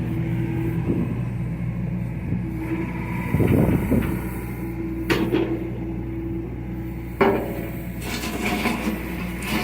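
John Deere excavator's diesel engine running steadily, with a rougher stretch a few seconds in and two sharp knocks later on.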